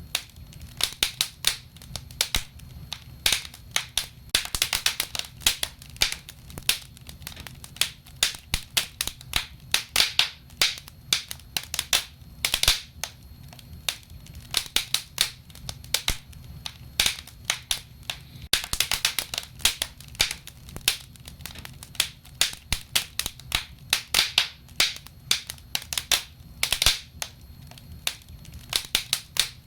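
Wood fire burning in a fireplace: a steady stream of irregular crackles and pops over a low, steady rumble.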